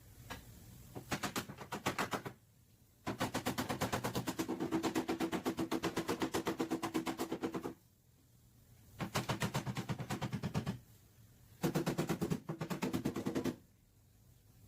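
Pneumatic tool hammering rapidly on sheet metal in four bursts, the longest about four and a half seconds, with short pauses between them.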